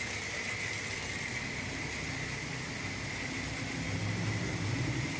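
Steady hiss of a self-service car wash's high-pressure spray wand, with a low machine hum beneath that grows a little louder near the end.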